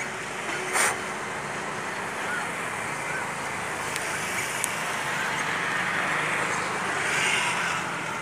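Steady vehicle noise, with a short sharp hiss about a second in and a couple of faint clicks later on.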